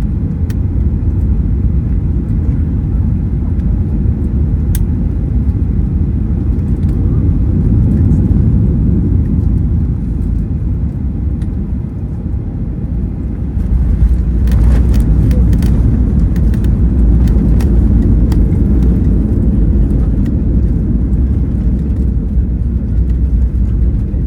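Cabin noise inside a Boeing 737-800 airliner: a loud, steady low rumble that steps up about 14 seconds in and stays louder, with some rattling clicks.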